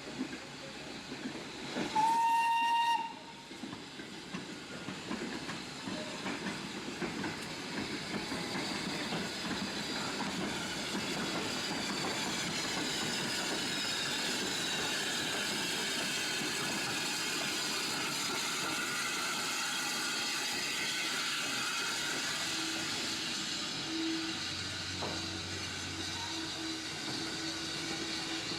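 A train's whistle sounds once for about a second, followed by the noise of a train running, which grows louder over the next several seconds and holds, with rail clatter in it. A steady low tone comes in near the end.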